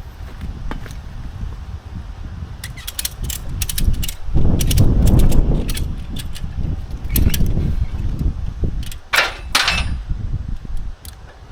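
Metal knocks and clinks from parts being handled on a steel truck bed, over a low rumble. A cluster of sharp clicks comes a few seconds in, a heavier low thump follows, and near the end come two short harsh bursts.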